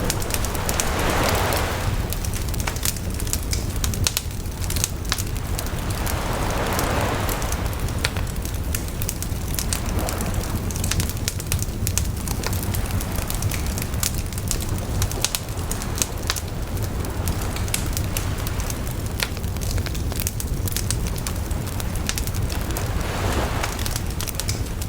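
Wood fire crackling with frequent sharp pops and snaps, while sea waves wash ashore in slow swells a few times.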